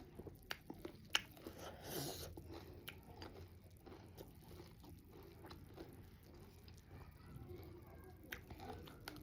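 Close-up chewing and crunching of chatpate, a crunchy spicy puffed-rice snack, with a few sharp crunches scattered through softer chewing.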